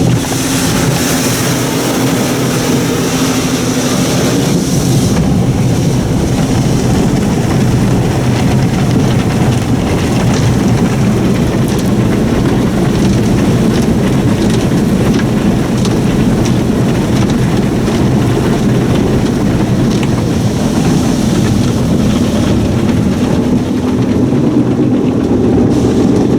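Autec In-Bay Express soft-touch car wash running over the car, heard from inside the cabin: water spray and cloth wash material drumming on the body over the machine's motors, loud and steady.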